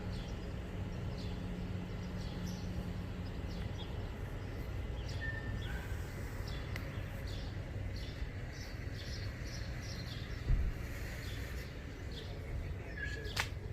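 Birds chirping in scattered short calls over a steady low background hum, with a brief low thump about ten and a half seconds in.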